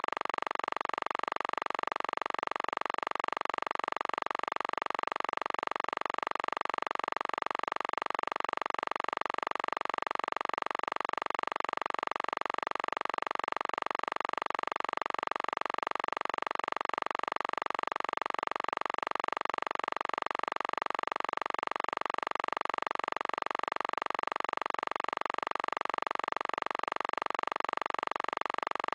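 Steady, unchanging hiss of static, with no other sound.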